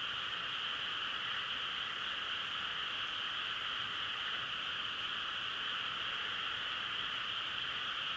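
A dense chorus of frogs calling together, blending into one steady, unbroken trill.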